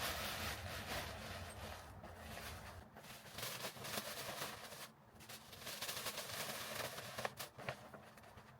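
Tissue paper crinkling and rustling as sheets are tucked into the top of a gift bag, with irregular sharp crackles that ease off briefly about five seconds in.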